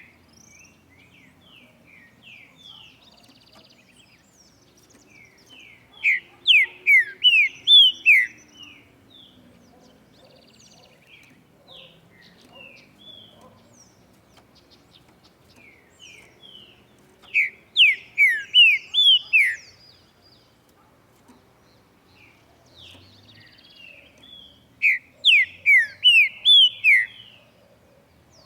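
Male green-winged saltator (trinca-ferro) singing: three loud phrases of six or seven clear, downward-sliding whistled notes, each phrase about two seconds long and several seconds apart, with soft chirps in between.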